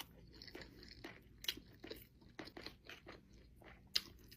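Close-miked chewing of sushi: a string of irregular wet crunches and mouth clicks, with a louder crunch about a second and a half in and another near the end.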